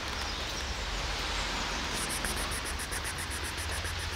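Steady rain falling, heard as an even hiss, with a fast, high-pitched ticking starting about halfway through.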